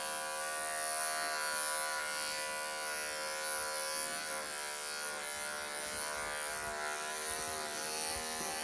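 Electric pet clippers (Wahl professional) running with a steady buzzing hum, clipping matted fur from a Persian kitten's underside.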